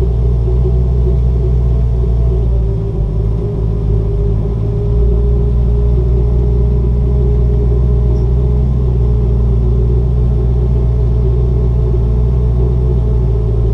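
Rear-mount-turbo car's engine idling steadily with a low rumble, its note stepping down slightly about two and a half seconds in.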